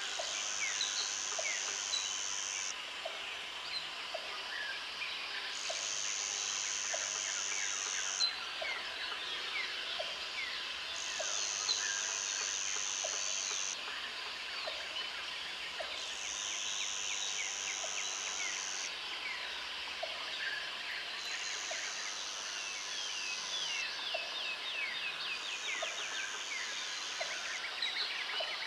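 Jungle ambience: an insect buzzes high in bouts of about two and a half seconds, repeating every five seconds, over a dense chorus of many short bird chirps and a regular low tick about once a second.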